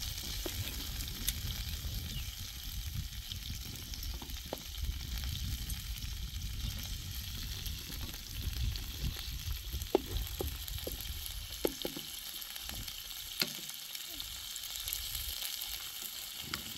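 Food frying in a pan, a steady sizzle, with a few sharp knocks of a stirring utensil against the pan, the loudest about ten seconds in.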